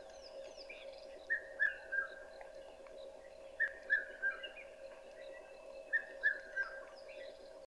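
A bird singing a short phrase of three or four falling whistled notes, repeated three times about two seconds apart, with fainter chirps from other birds. A steady hum runs underneath.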